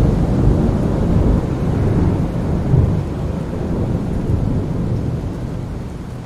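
A long roll of thunder over steady rain: the rumble breaks in suddenly right at the start, then slowly dies away over the following seconds.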